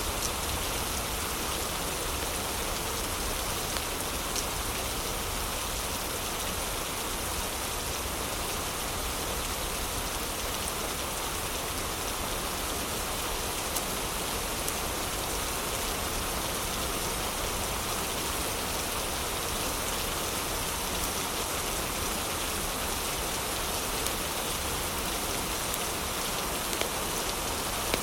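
Heavy rain falling steadily, an even unbroken hiss, with a few brief sharp clicks scattered through it.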